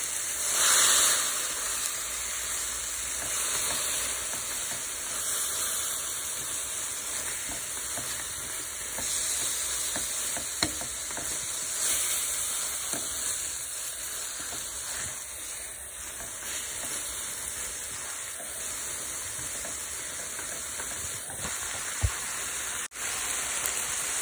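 Kelp noodles sizzling in a hot pan as they are stirred with a plastic spoon: a steady frying hiss with a louder surge of sizzle about a second in and a few sharp clicks.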